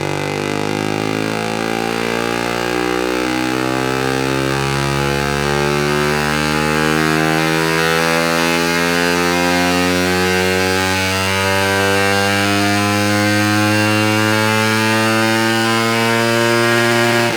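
Suzuki GSX-R150's single-cylinder four-stroke engine breathing through a Yoshimura R77 full-system exhaust, pulling in one long dyno run with its pitch climbing slowly and steadily, then dropping sharply at the very end as the throttle closes.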